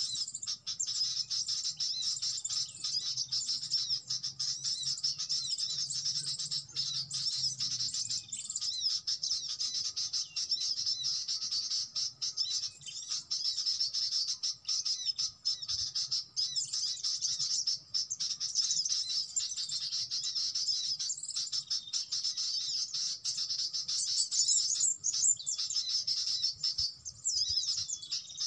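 Small birds twittering in a dense, continuous chorus of high chirps and calls.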